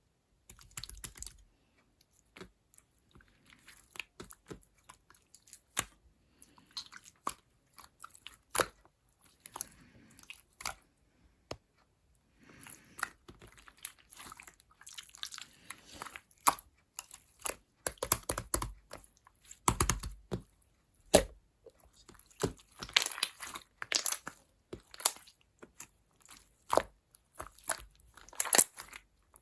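Close, irregular crunching and crisp clicks, coming thicker and louder in the second half.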